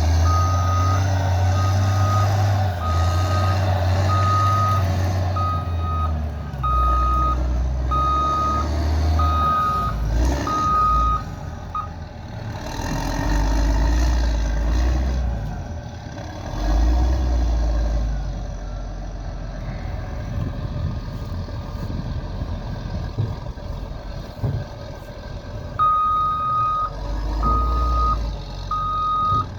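Reversing alarm on a heavy vehicle beeping a bit under once a second over its running engine. The beeping stops about twelve seconds in and starts again near the end, while the engine keeps running and its note rises and falls.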